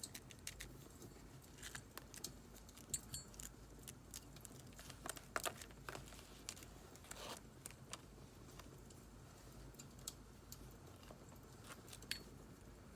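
Quiet, scattered clicks, taps and rustles of paper and journaling supplies being handled, over the crackle of a wood fire.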